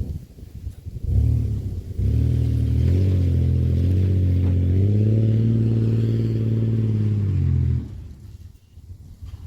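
A vehicle engine and exhaust pulling under throttle. The pitch rises in two steps, about three and five seconds in, holds steady, then drops away sharply near the end.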